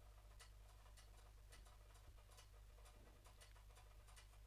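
Near silence: faint, scattered computer mouse clicks, a few a second, over a low steady hum.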